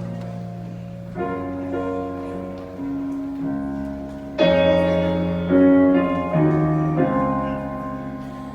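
Piano music: slow chords struck roughly once a second, each left to ring and fade before the next.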